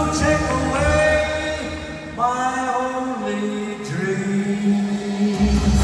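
Live band playing a slow pop ballad, with long held sung notes over the accompaniment; the bass drops out for a few seconds midway and comes back near the end.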